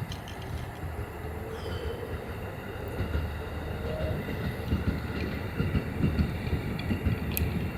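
Train running past: a steady rumble with uneven knocking from the wheels, growing a little louder in the second half.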